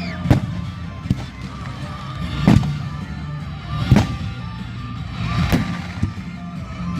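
Fireworks shells bursting overhead: about five sharp bangs spaced a second or so apart, over a steady background of music.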